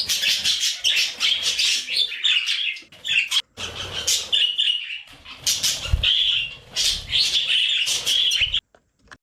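Budgerigar chattering, a rapid run of chirps, clicks and short warbles that stops abruptly near the end.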